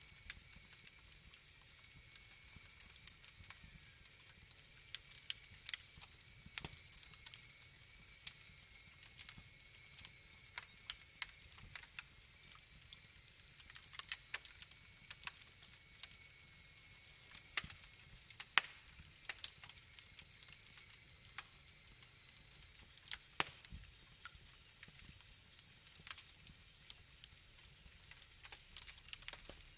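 Wood fire crackling: irregular sharp pops and snaps over a faint hiss, with a faint steady high whistle that fades out about halfway through.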